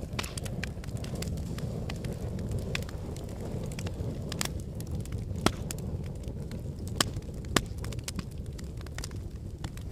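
Wood fire burning in a fireplace: a steady low rumble of flames with frequent sharp crackles and pops from the burning logs, three of them louder, about halfway through and near the end.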